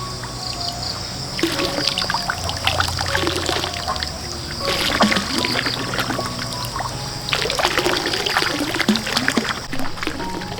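Water splashing and trickling in two bouts of a few seconds each, over soft background music with held notes.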